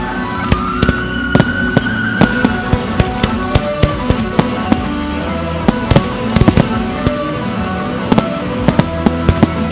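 Fireworks shells bursting in a quick irregular string of sharp bangs, about two or three a second, bunching into fast clusters around the middle and near the end. Sustained music plays underneath throughout.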